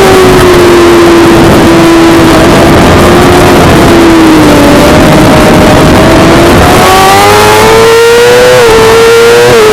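Suzuki GSX-R600 inline-four race engine running at high revs, heard on board over heavy wind rush. The engine note sinks for the first few seconds, then climbs steadily as the throttle opens again, with a brief dip near the end.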